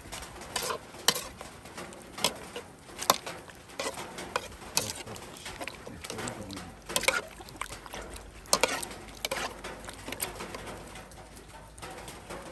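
Ladle stirring a pot of curry, with irregular clinks and scrapes against the pot.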